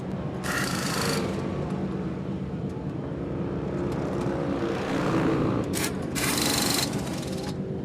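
Sports-car racing engines running on track, with two short bursts of rushing noise, about half a second in and about six seconds in.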